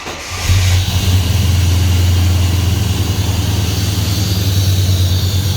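Fuel-injected Holden 304 5-litre V8 in a VK Commodore turns over on the starter and catches about half a second in, then runs evenly at idle: a cold start that fires straight away after more than a year in storage.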